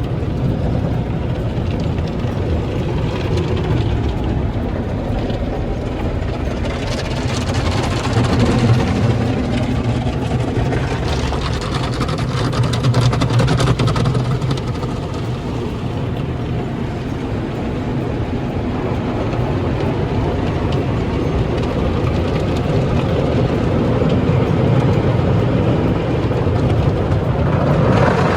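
Automated tunnel car wash running over a truck: a steady machine rumble, with two swells of hissing spray and scrubbing, about a quarter and about halfway through.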